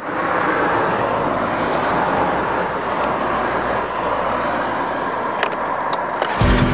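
Steady rushing road and vehicle noise, an even hiss with no clear engine note. Music starts near the end.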